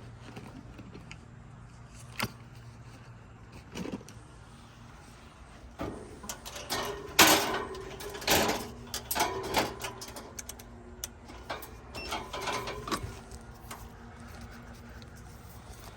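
Handling noises from a voltage check at an air conditioner's electrical panel: scattered clicks, then a cluster of clattering knocks and rattles in the middle, over a steady low hum.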